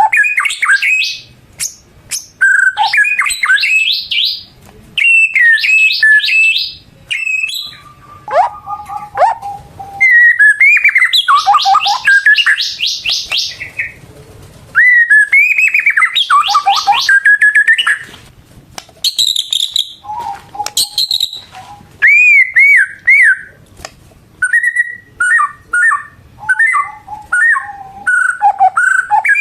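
White-rumped shama (murai batu) singing a loud, varied song: phrases of clear whistles, sweeping notes and rapid trills, with short pauses between them.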